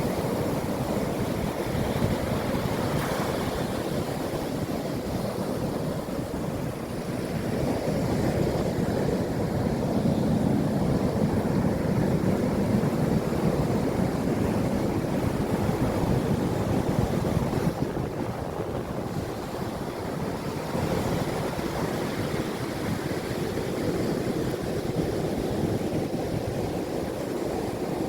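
Sea surf: waves breaking and washing ashore in a continuous rush, swelling louder in the middle and easing briefly later on.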